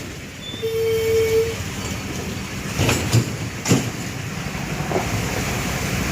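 Vehicle traffic rumbling, with a short steady horn tone about a second in and a few sharp knocks around the middle.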